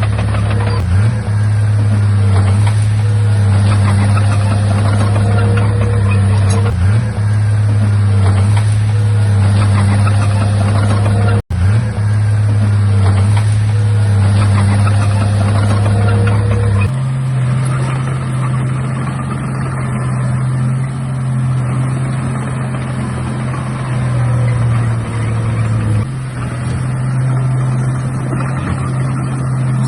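Komatsu D31A bulldozer's diesel engine running steadily under load. The sound cuts out for an instant about a third of the way in. A little past halfway the engine note jumps to a higher pitch and holds there.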